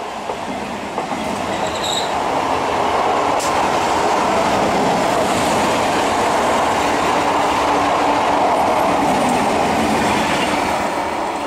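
ICF-built EMU local train passing close at speed on a sharp curve: a loud, steady rumble and rattle of steel wheels on the rails that swells as the coaches go by, with a brief high squeal about two seconds in.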